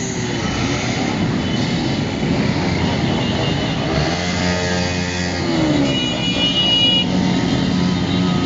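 Many motorcycles running together in traffic: a steady mixed engine rumble with a few brief pitched tones over it.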